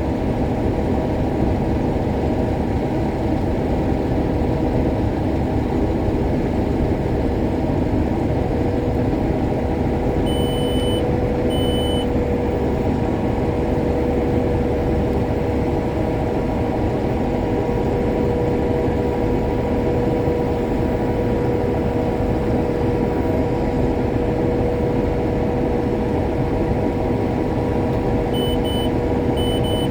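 Case IH Axial-Flow 7150 combine running steadily while harvesting soybeans, heard from inside the cab as a constant drone with a steady hum. Short electronic beeps sound twice about ten seconds in and several more times near the end.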